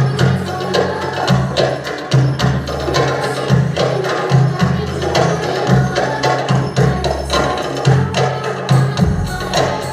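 Tabla played along to a pop song's backing track: quick, sharp hand-drum strokes over a steady beat and a repeating bass line.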